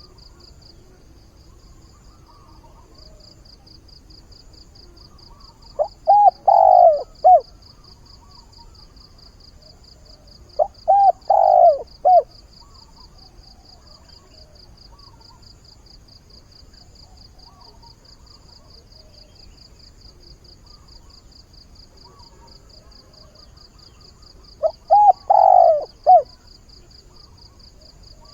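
Spotted dove (cu gáy) decoy bird cooing its advertising call: three short phrases of several coo notes each, about a second and a half long, near 6, 11 and 25 seconds in. Under it is a faint, fast, high-pitched pulsing.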